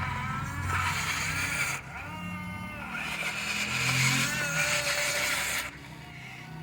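A vehicle's motor running, its pitch and level shifting up and down, with a short dip about two seconds in and a drop near the end.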